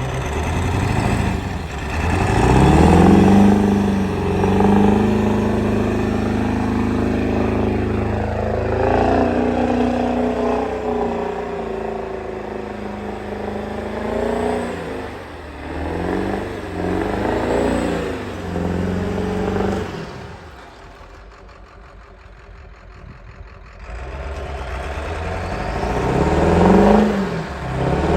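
A 7.3-litre diesel pickup engine revs up under load several times, its pitch rising and then held high while the truck tries to drive sideways out of icy ruts. About twenty seconds in it drops off to a much lower level for a few seconds, then revs up again near the end.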